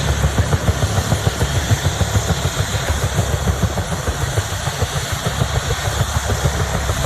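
Bell UH-1 Huey helicopter running: its two-blade main rotor beats out a fast, even, low pulse over the steady hiss of its turbine engine.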